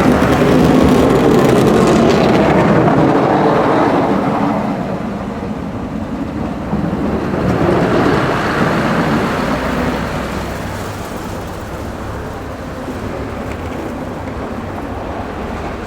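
Heavy snow-plow trucks driving by on the road. A loud pass fades away about four seconds in, a second swell comes around eight seconds, and then a lower steady road noise continues.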